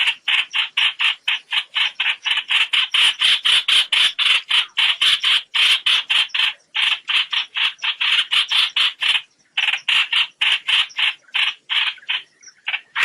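Trao trảo bird's flock-gathering call, played as a net-trapping lure: a fast, even series of short harsh notes, about four to five a second, with a brief pause about nine seconds in and the notes thinning out near the end.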